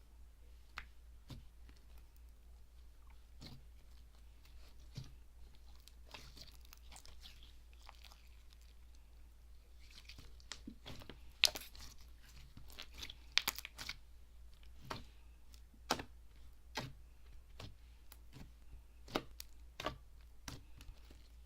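Slime being squeezed and pressed by hand, giving scattered crisp clicks and crunchy pops that come thickest about halfway through.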